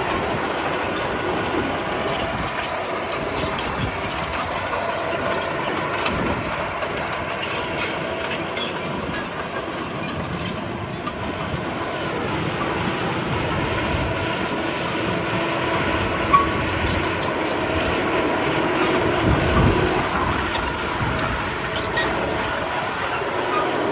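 A crawler bulldozer's diesel engine runs steadily under work while its steel tracks clank and squeal, with scattered metallic ticks and one sharp knock about two-thirds of the way through.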